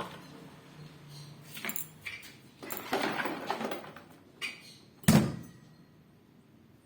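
Handling noises during a washing-machine repair: scattered clicks and knocks, a short rattling clatter of parts near the middle, then one loud thump about five seconds in.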